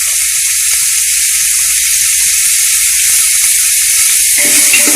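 Onions, green chillies and curry leaves sizzling in hot sunflower oil as they sauté: a steady hiss with small crackles. A spoon stirring and scraping the pot comes in near the end.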